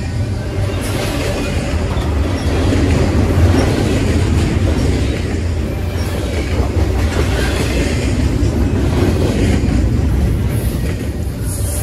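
Double-stack intermodal well cars passing at speed: steel wheels running over the rails in a loud, steady rumble.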